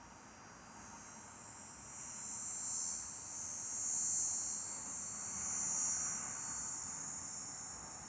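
High-pitched insect buzzing that swells up, holds, and fades away again.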